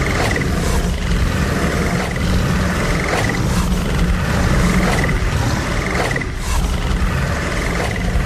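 Continuous roar-like sound effect with a heavy low rumble and a faint higher warble that recurs about every second and a half.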